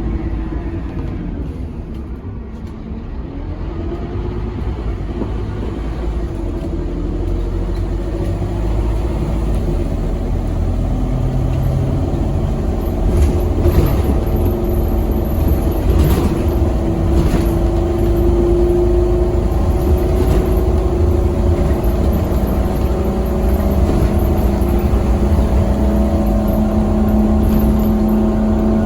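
A Scania K270UB6 Omnilink bus's nine-litre five-cylinder diesel and ZF Ecomat automatic gearbox under way. The engine note falls briefly in the first few seconds, then climbs slowly and gets louder as the bus pulls away and accelerates, with a few knocks and rattles from the body midway.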